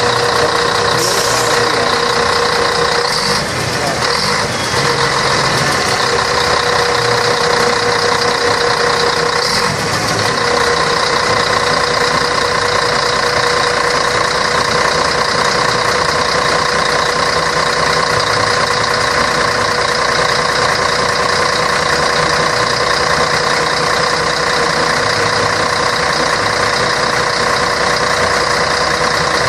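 Scania K113 bus's straight-six diesel engine running at a steady speed, a constant drone that holds the same pitch throughout.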